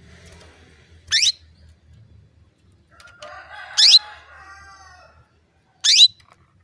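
Female canary giving three short, sharp calls, each a quick upward sweep to a high pitch, about two seconds apart: the calling of a hen canary to a male. A fainter, longer and lower call sounds underneath the second one.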